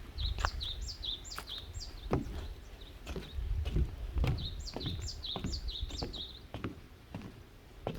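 A songbird singing quick runs of high, down-slurred notes, one run just after the start and a longer one in the middle, over a low rumble of wind with a few scattered knocks.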